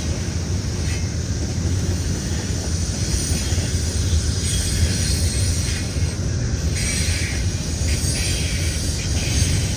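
Cars of a BNSF intermodal freight train rolling past: a steady rumble of wheels on the rails.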